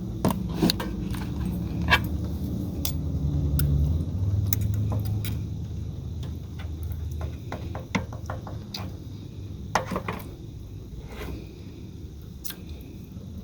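Metal utensil clicking and scraping against a pan while chicken pieces in sauce are cut up, in irregular knocks throughout. A low rumble sits under the first half and fades after about seven seconds.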